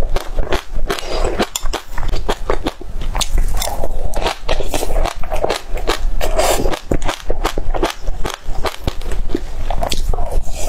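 A person crunching and chewing mouthfuls of black sesame seeds on a white dessert, close to the microphone: a dense run of sharp crackling crunches.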